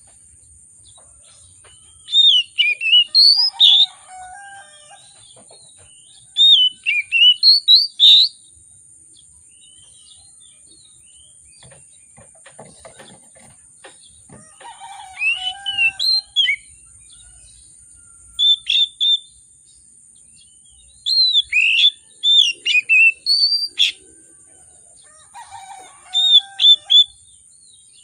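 Oriental magpie-robin singing in short bursts of loud, rapidly varied whistled phrases that swoop up and down, with pauses of a second or more between bursts. A steady thin high-pitched tone runs underneath.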